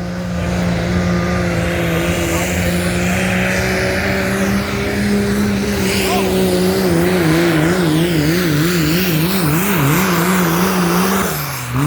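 Diesel pulling truck's engine at full throttle under load during a sled pull. The engine note holds steady, then wavers rapidly up and down through the second half, and drops near the end as the throttle comes off.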